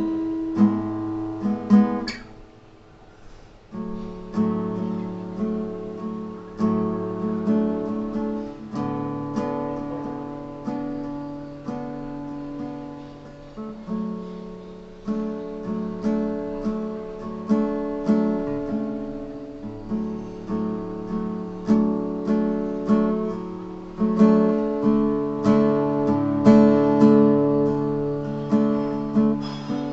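Acoustic guitar played solo, chords plucked and strummed at an unhurried pace, each ringing out and fading, with a brief lull about three seconds in.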